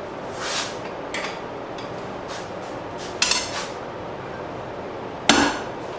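Steel bar stock and tools clanking against a blacksmith's anvil a few times, with two sharper metallic clanks in the second half, over a steady background rush.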